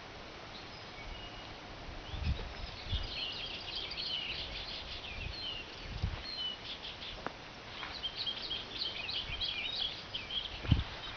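Small songbirds chirping and twittering in quick, overlapping notes, busiest in two spells, with a few soft low thumps in between.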